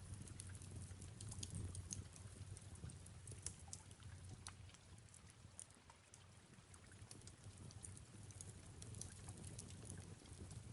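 Faint fireplace crackling with soft rain: scattered small pops and ticks over a low, steady rumble.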